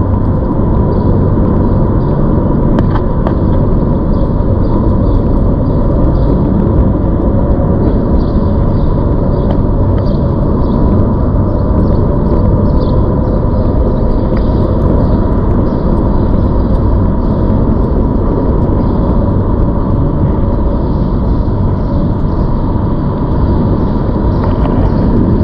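ZOOZ electric bike being ridden: a loud, steady rumble of wind and road noise on the microphone, with a steady whine running through it.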